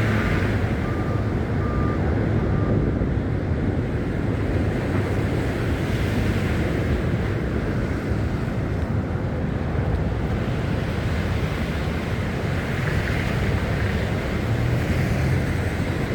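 Storm wind buffeting a phone's microphone: a steady low rumble and hiss with no distinct events.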